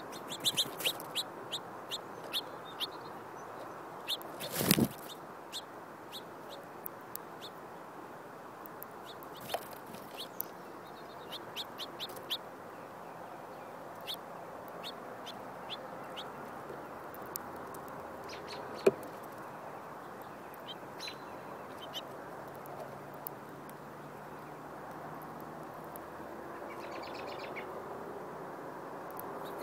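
Birds at a seed feeder chirping, short high chirps coming in clusters, densest in the first few seconds and thinning out later. A brief rushing noise comes about four and a half seconds in and a single sharp click a little past halfway, over a steady outdoor hiss.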